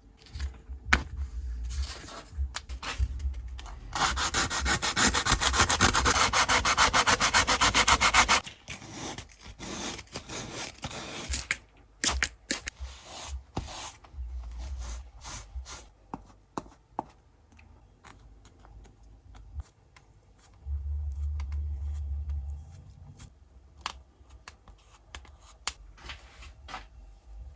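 Abrasive rubbing on a vice part, a dense, rapid scratching that starts about four seconds in and stops abruptly about four seconds later. Scattered sharp clicks and knocks of the work being handled come before and after it.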